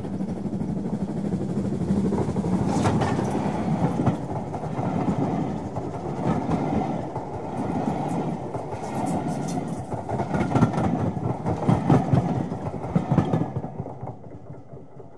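A train running past: a steady rumble with irregular clicks, fading out near the end.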